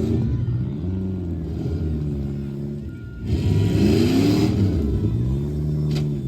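Demolition derby car engines revving up and falling back, about three times, as the cars push and back into one another. A rush of noise comes in about three seconds in, and a single sharp knock sounds near the end.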